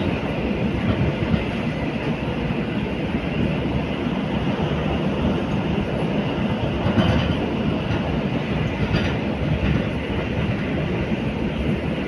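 Passenger train running on its tracks: a steady rumble of wheels on rails with some clickety-clack.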